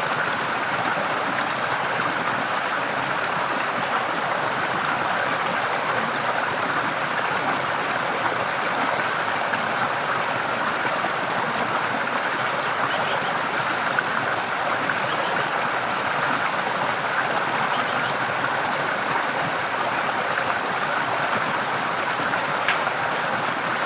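Forest stream flowing steadily, an even rushing of water, with a few faint high chirps in the second half.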